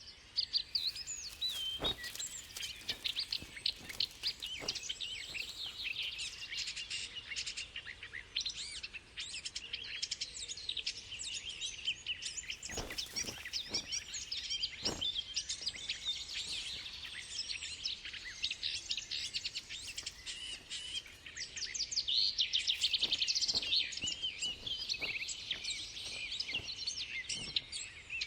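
Several small songbirds chirping and trilling over one another in a dense chorus, busiest about three quarters of the way through, with a few faint knocks.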